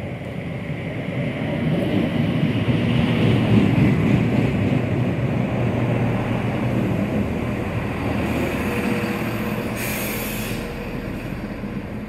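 Class 170 Turbostar diesel multiple unit pulling into the platform: the diesel engines and wheels rumble past, loudest about three to four seconds in, with a thin high squeal from the wheels or brakes as it slows.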